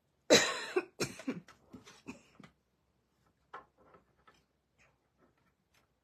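A woman coughing: one loud cough, then several weaker ones in quick succession over about two seconds, followed by a few faint clicks.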